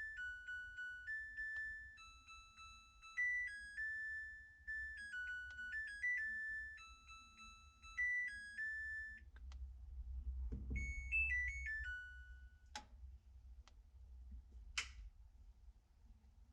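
Samsung top-load washing machine playing its end-of-cycle melody, a tune of clean electronic beeps that lasts about nine seconds. A low thud follows, then a short jingle of a few beeps and two sharp clicks near the end.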